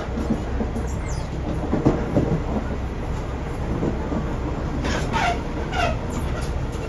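Running noise of a JR Central 311 series electric multiple unit heard from inside the car: a steady low rumble with wheel clatter over rail joints. A few short squeaks come about five to six seconds in, as the train comes into the terminus platform.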